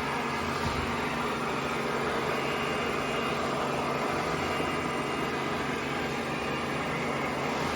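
ECOVACS DEEBOT robot vacuum running: a steady motor hum under even suction-fan noise.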